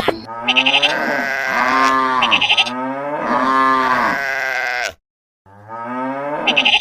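Loud animal calls, several in a row, each rising and falling in pitch, with a sudden half-second dropout about five seconds in.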